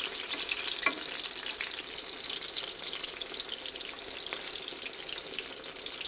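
Eggplant slices frying in shallow olive oil in a skillet: a steady crackling sizzle full of fine spits, with one sharp click about a second in as a fork turns the slices.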